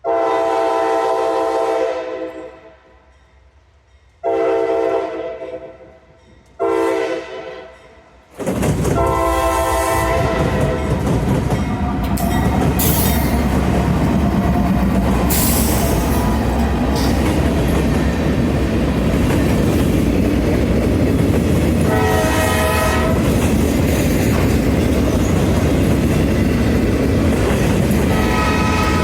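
Locomotive horn sounding the grade-crossing signal, long, long, short, long, as the train arrives. The train then passes close by with loud steady rumble and wheel clatter on the rails, and two more short horn blasts.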